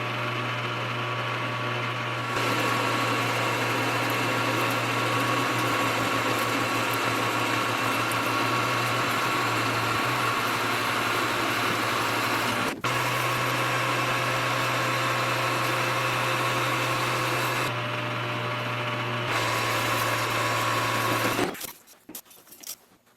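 Metal lathe running under power feed while turning down a pin, a steady motor hum with the cutting noise of the tool in the metal. It drops away near the end.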